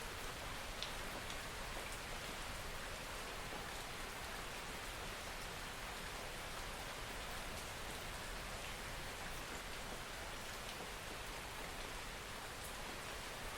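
Steady rain, a soft even hiss with faint scattered drop ticks.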